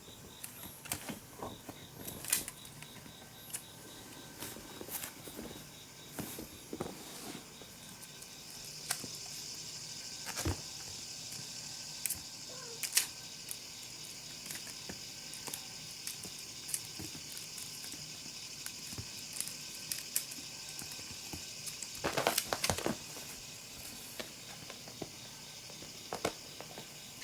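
Kittens batting and grabbing at a dragonfly cat toy: scattered light taps, clicks and rustles, with a quick flurry of them about twenty-two seconds in. A faint steady hiss runs underneath from about nine seconds in.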